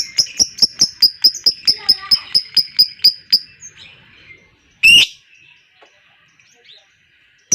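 Lovebird 'ngekek' song: a long, fast chattering trill of sharp, high chirps, about five a second, that stops after about three and a half seconds. One loud harsh squawk follows about five seconds in, and a new trill starts right at the end.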